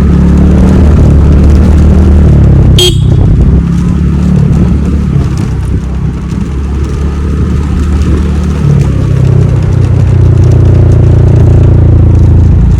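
Steady low rumble of wind buffeting a handlebar-mounted phone's microphone over a TVS Ntorq scooter's engine while riding, with one short sharp sound about three seconds in.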